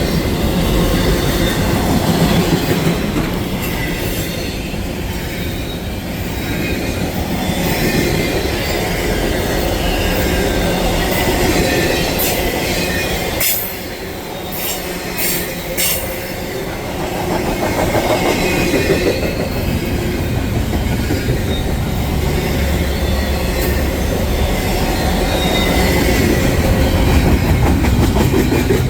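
Railroad cars rolling past, with steady wheel rumble, clacking over rail joints and some wheel squeal. A few sharp high clicks come about halfway through.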